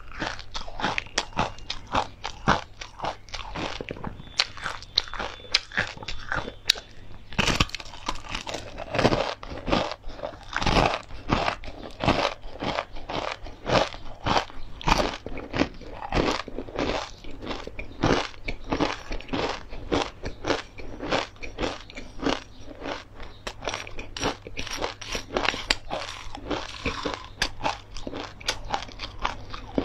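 Close-miked chewing and biting of a crispy fried food: a steady run of sharp, dry crunches, several a second.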